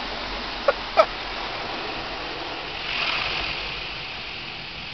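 Automatic car wash water spraying against the car, heard from inside the cabin, swelling about three seconds in as the spray passes. The driver's door doesn't seal, so the water sprays in. Two short cries come about a second in.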